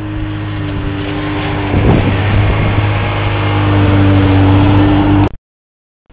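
Snowmobile engine running close by at a steady pitch, growing louder over a couple of seconds, then stopping abruptly about five seconds in.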